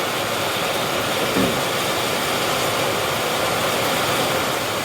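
Steady hiss of heavy rain and rushing floodwater.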